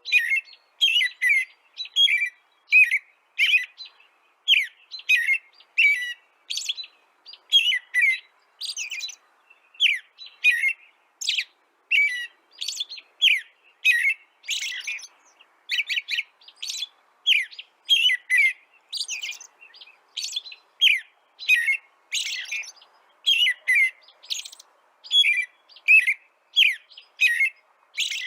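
A small songbird chirping over and over, about two quick, high, downward-sliding chirps a second in a steady, unbroken series.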